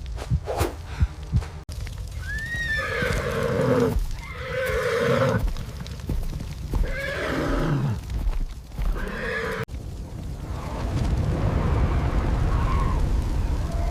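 Horse whinnying in several long, wavering calls, after a few low thumps at the start. The calls cut off abruptly about ten seconds in and give way to a steady low rumble.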